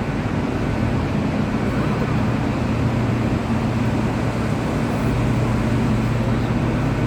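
Steady low rumble and hum inside a railway passenger carriage.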